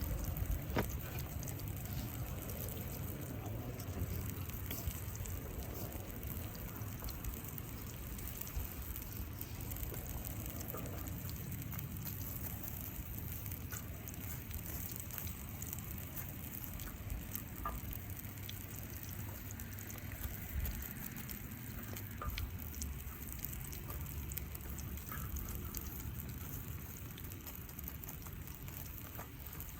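Steady sizzling and crackling of a wood campfire with a cast-iron skillet cooking over it, with scattered small pops and clicks.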